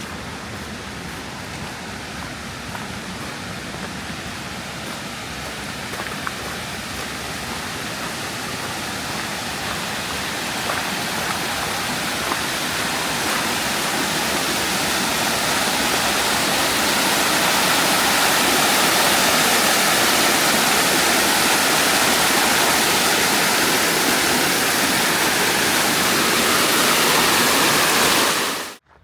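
Rushing water, a steady hiss that grows gradually louder over the first fifteen seconds or so, holds, and cuts off abruptly near the end.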